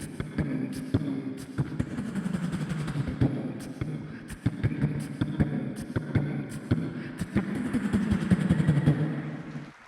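Beatboxing and vocal sound effects performed through a microphone and PA: a low hummed or sung pitched line under fast percussive clicks and hits. It stops abruptly just before the end.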